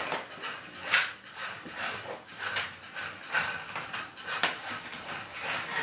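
Irregular knocks and clatter of hard plastic toy slot cars and track pieces being handled and set down, roughly one or two knocks a second.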